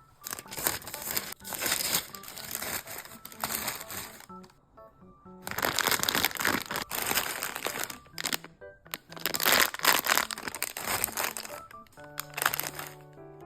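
Plastic snack packaging crinkling and rustling as it is handled, in three long stretches with short pauses between, over light background music.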